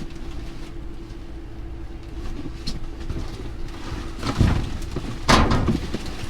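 Items being shifted around in a dumpster, with two loud knocks about four and a half and five and a half seconds in, over a steady low hum.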